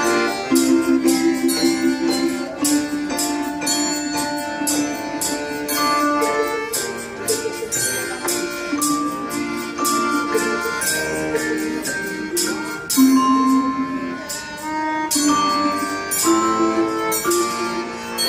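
Russian folk song played by an ensemble: held melody notes over a steady beat of percussion.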